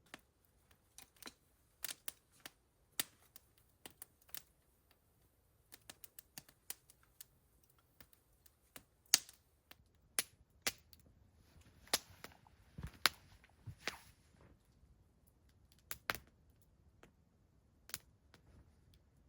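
Wood campfire crackling, with irregular sharp pops and snaps, several of them loud.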